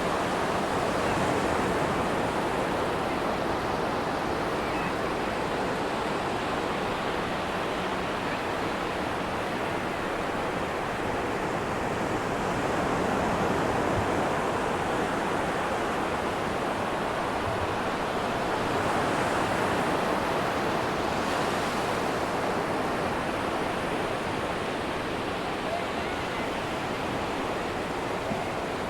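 Ocean waves breaking and washing on a sandy beach, a steady surf with slow swells in loudness as sets come in.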